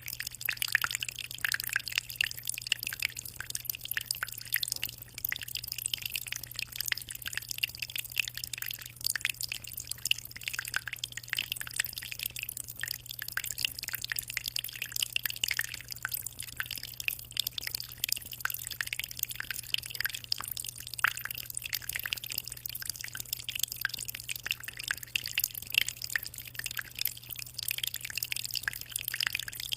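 Aquarium water trickling and splashing continuously, a busy patter of small drips and splashes over a steady low hum.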